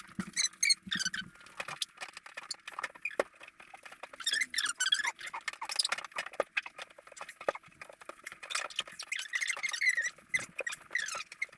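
A cloth wiping a fridge shelf clean, squeaking in runs of short high chirps, with small knocks and clicks in between.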